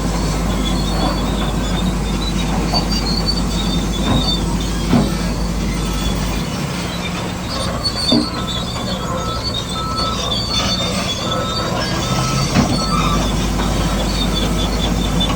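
Radio-controlled bulldozer running: electric drive motors and gearboxes whining while its tracks squeal and clatter, with a few knocks along the way.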